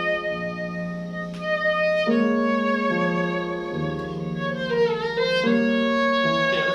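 Viola played with the bow in a slow, sustained passage with vibrato, more than one line sounding at once. About four and a half seconds in, the melody slides down and back up.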